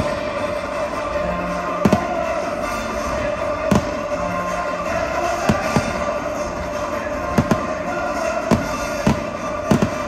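Fireworks going off in sharp single bangs, about ten of them, some in quick pairs, over continuous music.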